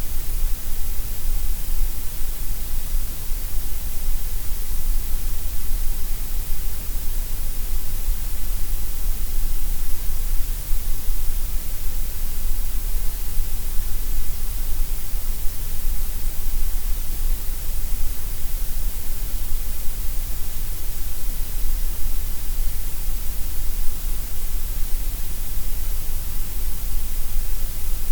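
Gray noise: a steady, even hiss with a deep low rumble and bright highs, thinner through the middle.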